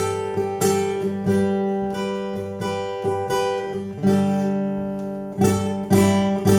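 Acoustic guitar strumming chords in a steady rhythm, a new strum about every two-thirds of a second, with one chord left ringing longer around the middle.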